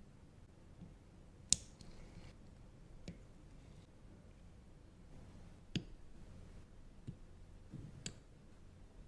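Faint, sharp clicks and taps of small objects being handled, four of them clear and spread a couple of seconds apart, the loudest about one and a half seconds in.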